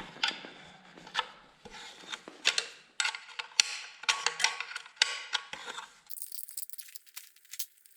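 Metal clinks and rattles of hand tools and small bike parts being handled during work on a pit bike's chain cover and chain, an uneven run of sharp ticks and knocks. In the last two seconds the clinks give way to a thin hiss with a few faint clicks.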